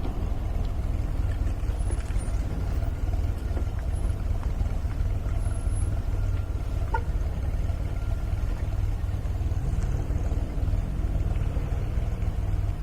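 MGA roadster's four-cylinder engine running on the move, a steady low drone, with the engine note briefly rising and falling near the end.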